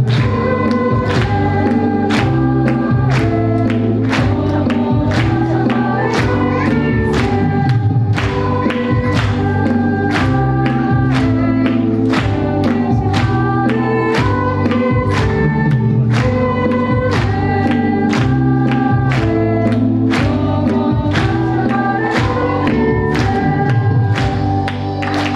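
Church vocal ensemble singing a hymn medley with instrumental accompaniment over a steady beat of about two strokes a second; the music winds down near the end.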